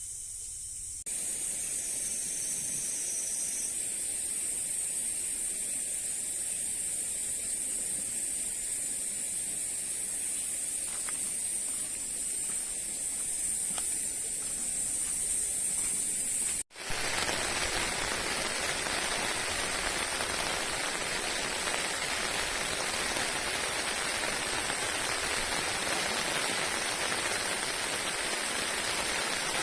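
Steady rushing water noise, like rain or flowing water. For the first half it comes with a steady high-pitched drone. Then a cut leads to a louder, fuller rush of water.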